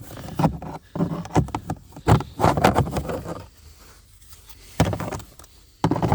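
Handling noise from refitting plastic taillight parts: irregular scraping, rubbing and knocking in short bursts, with a few quiet gaps.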